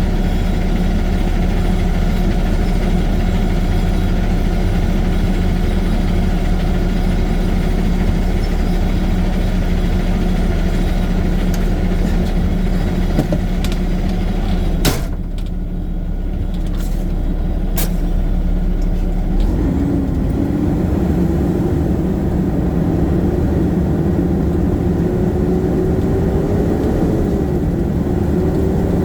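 Garbage truck's diesel engine running steadily. A short sharp click comes about fifteen seconds in, and from about twenty seconds a whine slowly rises in pitch.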